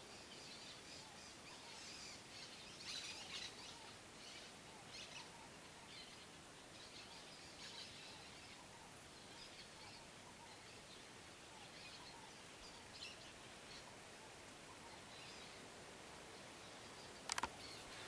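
Faint, scattered high chirps of small birds over quiet outdoor background noise, a little stronger about three seconds in. A single sharp click of the camera being handled comes near the end.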